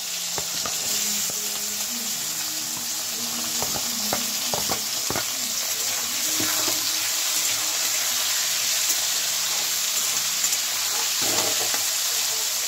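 Diced potatoes sizzling in hot oil in a kadhai just after being added, with the clinks and scrapes of a metal spatula stirring them, mostly in the first five seconds and again near the end.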